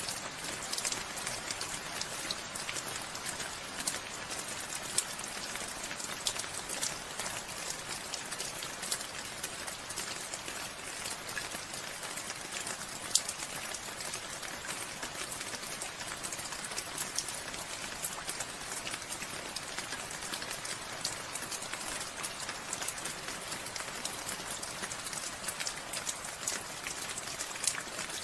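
Steady rain falling, with many close individual drops ticking on surfaces and an occasional louder drop.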